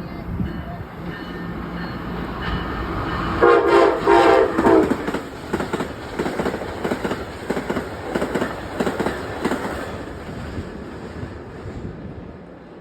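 Passing train sounding its horn in a loud chord about three and a half seconds in, followed by a steady rhythmic clatter of wheels over the rail joints that fades near the end.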